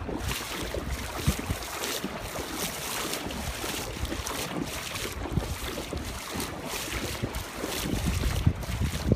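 Someone wading through deep floodwater, the water sloshing and splashing irregularly with each stride, with wind rumbling on the microphone.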